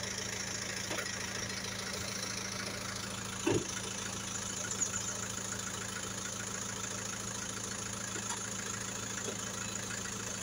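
A vehicle engine idling steadily with a low, even hum. There is one soft knock about three and a half seconds in.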